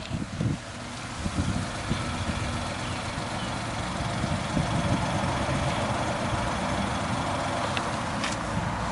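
Suzuki Carry kei truck's 660cc three-cylinder engine running steadily at idle, with two brief clicks near the end.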